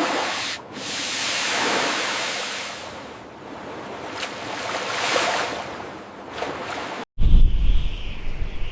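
Rushing noise of waves, swelling and fading in slow surges. About seven seconds in it cuts off suddenly, and wind rumble on the microphone follows with a steady high hiss.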